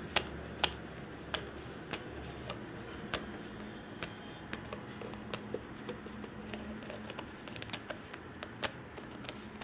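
Handling noise: scattered light clicks and taps at irregular intervals, over a low steady hum.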